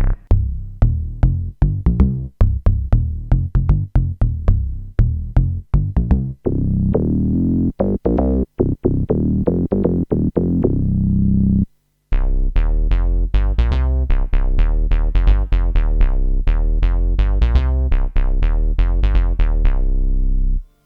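Kurzweil K2500R synthesizer playing factory presets dry, with no effects. A rhythmic pattern of short, sharp-attack notes over a bass line stops about twelve seconds in. After a brief break, another preset plays a faster run of repeated notes over a heavy bass.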